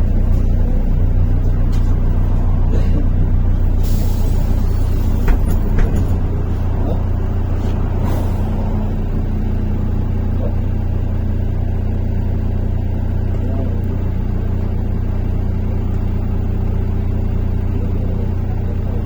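Inside a MAZ-103.485 city bus on the move: steady engine drone, with short hisses of air from the pneumatics about four and eight seconds in and a couple of knocks around five seconds in.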